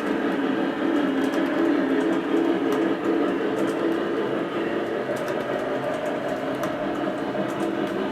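Lionel Vision Line Big Boy model locomotive running on track: a steady mechanical rumble with light scattered clicks.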